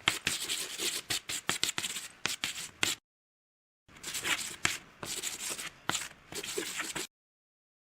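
Rustling, scraping noise with many sharp clicks, in two stretches of about three seconds each, both cut off abruptly to dead silence.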